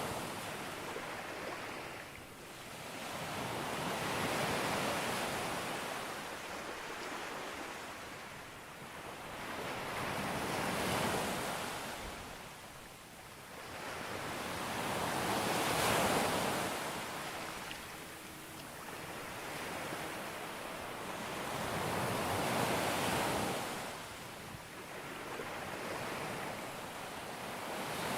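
Sea waves breaking on a beach, the surf rising and falling in a slow rhythm, one swell about every five to six seconds.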